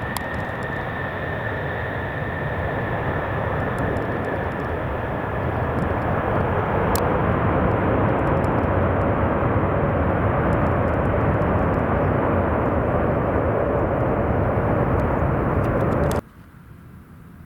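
Jet engines of a landing Boeing 747 heard close by: a steady rushing noise with a high whine that fades in the first few seconds, growing louder about six seconds in, then cutting off suddenly near the end.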